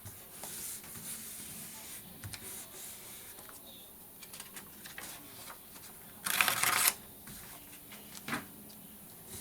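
Paper and craft materials being handled on a work table: light rustles and small clicks and taps. About six seconds in comes one loud, noisy rustle lasting under a second.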